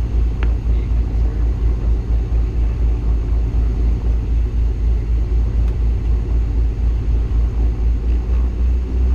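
Twin piston engines of a Beechcraft G58 Baron (Continental six-cylinders) running with a steady low drone that pulses in loudness a few times a second.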